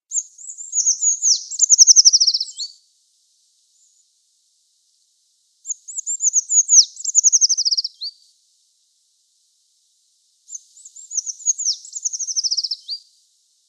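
Eurasian treecreeper singing: three high, thin song phrases a few seconds apart. Each is a descending trill about two and a half seconds long that ends in a short flourish.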